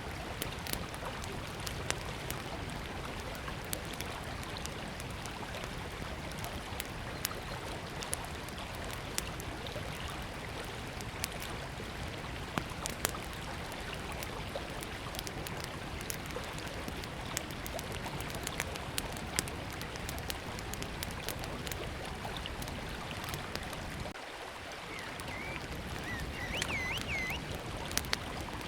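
Small wood fire crackling with frequent sharp pops over the steady rush of a river. A bird chirps a few times near the end.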